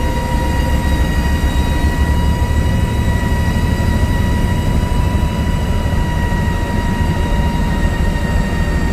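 A vehicle driving with a steady high-pitched whine ringing with several overtones over the low rumble of engine and road; the whine sinks slightly in pitch near the end. This is the unexplained whine that comes in under acceleration and is louder uphill, with no smoke or oil leak.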